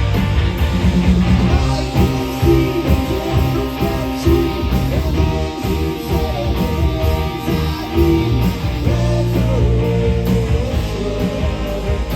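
Rock band playing live, electric guitar lines gliding over a steady drum beat.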